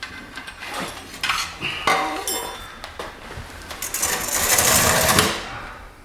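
Hand tools and metal parts clinking and clattering against metal, with a short ringing clink about two seconds in. A loud hissing rush lasts about a second, starting about four seconds in.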